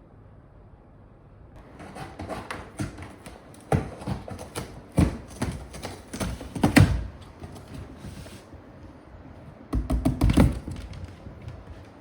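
A run of irregular taps and knocks, with a dense cluster of louder thuds about ten seconds in.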